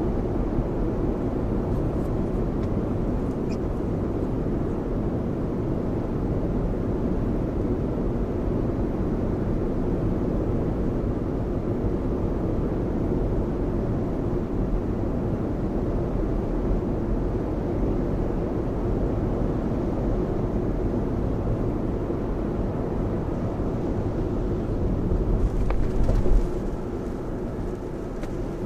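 Steady road and tyre noise inside a Lexus RX cabin, driving at speed on a rain-soaked expressway, with a brief louder rush about 25 seconds in.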